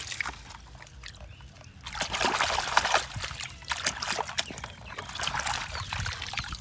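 Water sloshing and trickling, with louder splashing from about two seconds in.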